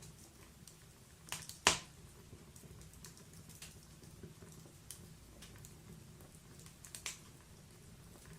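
Wood fire in a fireplace crackling: scattered sharp pops and ticks of burning logs, the loudest a bit under two seconds in, over a faint low rumble.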